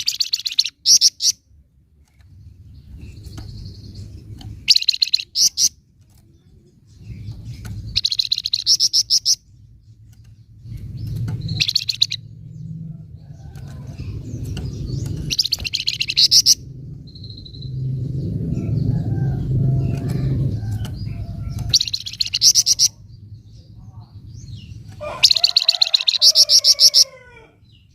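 Flamboyan (wergan Jawa, Javan fulvetta) giving its rattling 'nyecret' chatter: short bursts of about a second of rapid, evenly repeated harsh notes, about eight times, with a few brief high whistled notes between them. A low rumbling background noise runs underneath.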